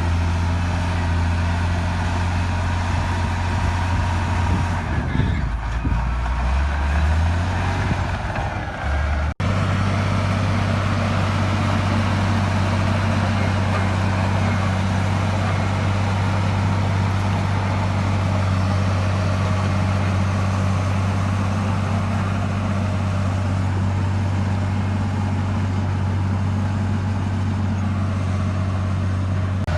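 Heavy earthmoving machine's diesel engine running steadily with a deep hum. About five seconds in its note drops lower for a few seconds, then it cuts out for an instant before running on steady.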